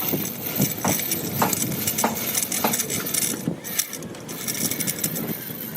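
A series of sharp knocks at a steady pace, about one every half second, over a constant background noise.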